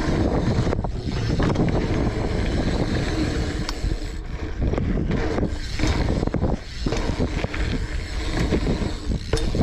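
Wind buffeting the microphone, with the rumble and light rattle of a BMX bike rolling over dirt.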